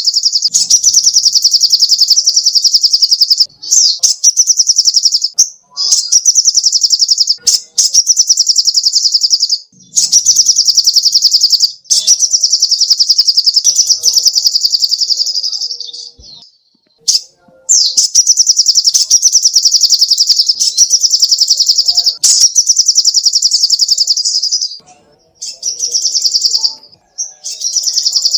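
Sogok ontong (little spiderhunter) singing: long runs of very rapid, high, evenly repeated chips, each run lasting one to three seconds, broken by short pauses and repeated over and over.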